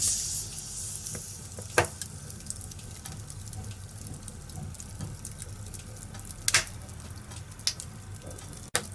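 Wood fire crackling in a fireplace: a steady hiss with scattered small snaps, a hissing flare at the start and a few sharper pops, about 2, 6.5 and 7.5 seconds in.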